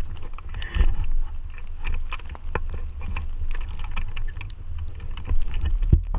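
Wind buffeting the microphone as a steady low rumble, with irregular crunching footsteps in snow.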